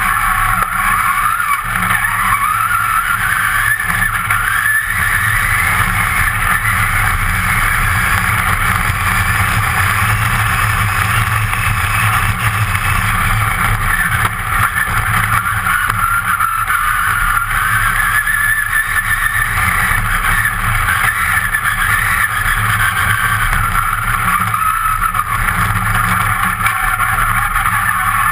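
A competition off-road car's engine running hard, heard from inside the caged cabin. Its note climbs and drops several times as the driver works the throttle, over a steady low rumble.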